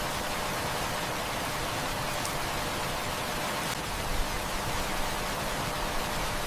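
Heavy rain falling steadily, an even hiss, with a few soft pops and crackles from a wood fire about halfway through.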